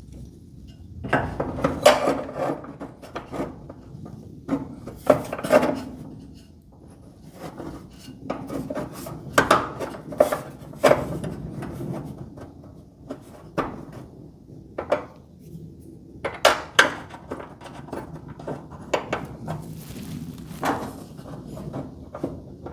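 Irregular clanks, knocks and scraping of hand tools and metal hinge hardware being handled while garage-door hinges are fitted, in short clusters of sharp clicks.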